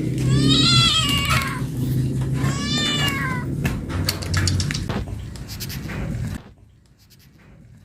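Stray cat meowing: two long meows in the first few seconds, then a few sharp clicks, before the sound drops away near the end.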